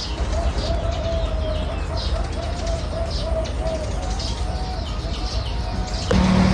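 Caged birds singing: a long wavering call that keeps to one pitch, with short high chirps over it. Near the end a low steady hum comes in.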